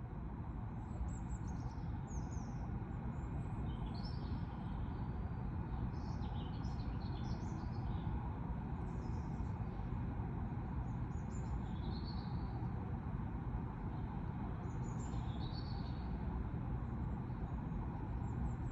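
Small birds chirping: short high chirps and calls every second or so, over a steady low background rumble.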